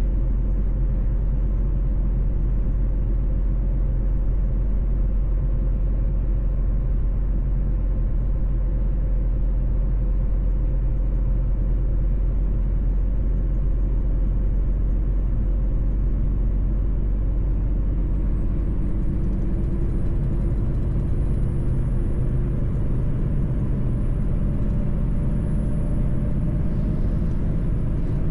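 Mercedes-Benz truck driving at a steady pace: a constant deep engine rumble with road noise. A thin high whine comes in and rises about two-thirds of the way through.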